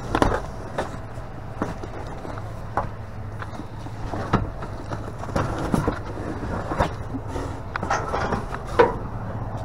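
Boxes and items being handled and shifted in a dumpster, with scattered knocks and rustles and a sharper knock near the end, over a steady low hum.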